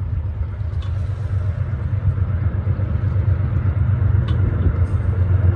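Amtrak passenger train led by a diesel locomotive, most likely Genesis P32AC-DM unit 702, running with a low steady rumble that grows gradually louder as it approaches.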